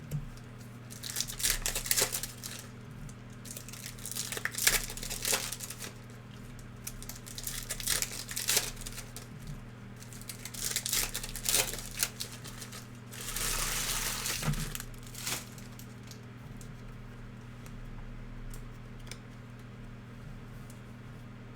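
Foil trading-card pack wrappers crinkling and being torn open in clusters of crackles, with one longer rip about two-thirds of the way in, then only faint handling noise. A steady low electrical hum runs underneath.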